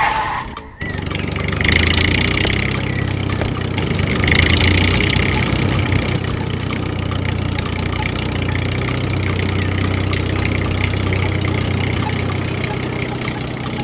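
Small engine of a miniature DIY tractor running steadily, with a short dropout under a second in and two louder swells, around two and four and a half seconds in.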